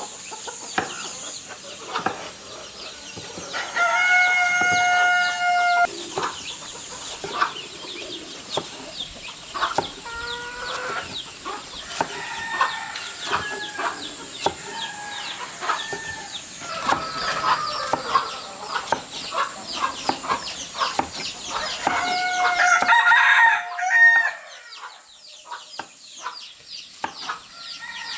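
A rooster crows twice, once about four seconds in and again near the end, each a long held call. Chickens cluck in short bursts in between, over a steady high-pitched hiss.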